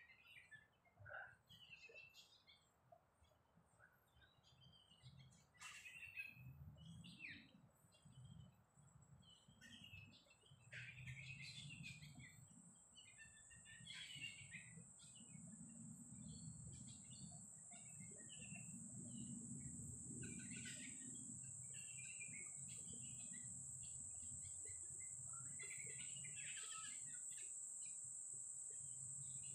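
Faint birds chirping and calling in short scattered notes. About a third of the way in, a steady high-pitched insect drone sets in and holds. A low rumble runs underneath.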